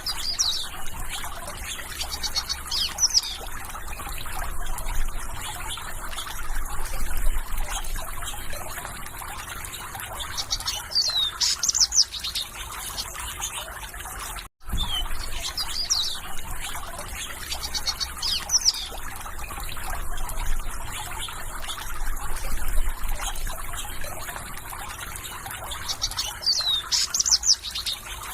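Water trickling and flowing steadily, with small birds chirping short high calls over it. The sound cuts out for a moment about halfway, and then the same stretch of water and birdsong repeats.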